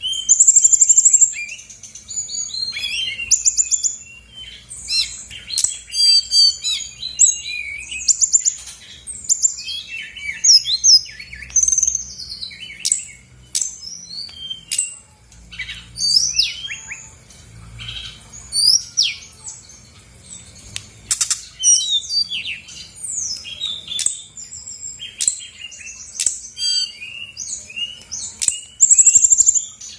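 Brown-chested jungle flycatcher (sikatan rimba dada coklat) in full song: a rapid, varied, unbroken stream of high chirps, rising and falling whistles and quick trills, strung from its learned song phrases.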